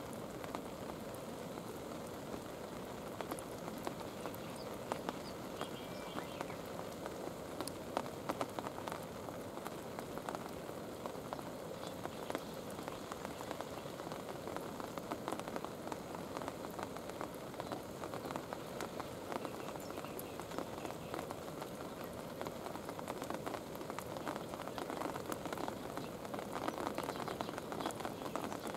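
Steady rain falling, a constant hiss sprinkled with many small drop ticks.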